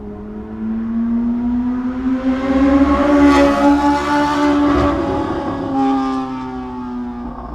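2004 Yamaha R6's 600 cc inline-four, fitted with an SP Engineering exhaust, passing at speed. The engine note climbs and gets louder to a peak a little past the middle, then falls away in pitch, with a few sharp cracks from the exhaust.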